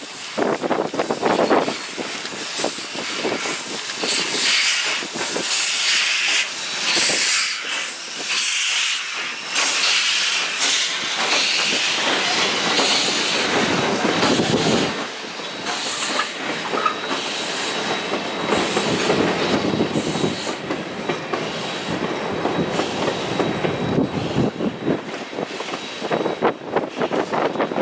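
Steam locomotive Western Pacific 165, an Alco 0-6-0, running on track: a continuous hiss with a dense clatter of short clicks from the moving train.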